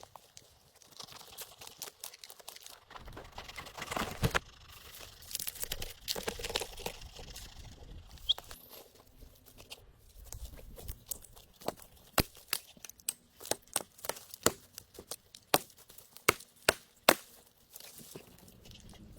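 Dry leaves and sticks rustling and crackling as they are handled, then a run of sharp snaps and knocks, irregular and sometimes about two a second, like sticks being broken or chopped.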